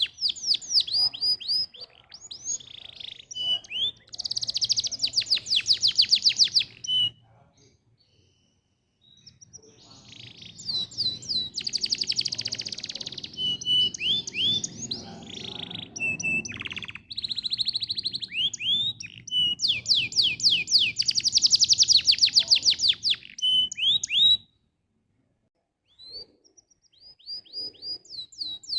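Domestic canary singing: long rolling trills of rapid repeated notes mixed with short whistled phrases. The song breaks off briefly twice, about seven seconds in and again about 24 seconds in.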